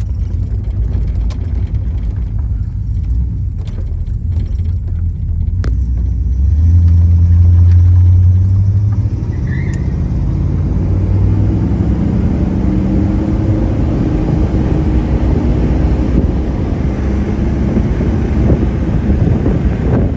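1966 Pontiac GTO's 389 V8 running as the car is driven. The low rumble swells loudest around seven seconds in, then the engine note climbs in pitch as it accelerates.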